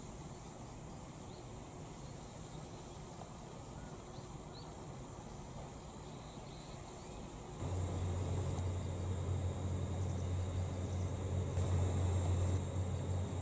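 Faint outdoor background with insect chirping. About seven and a half seconds in, a steady low mechanical hum starts abruptly and keeps running.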